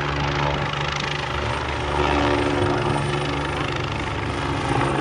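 Helicopter running steadily, a low, even engine and rotor sound without pauses.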